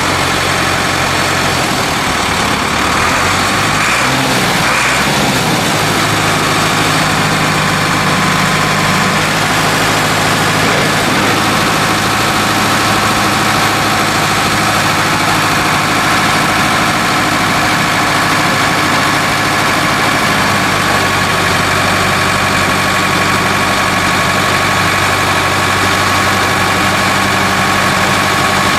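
1980 Ford 5600's four-cylinder Ford diesel engine running. Its pitch shifts over the first few seconds, then it settles into a steady run.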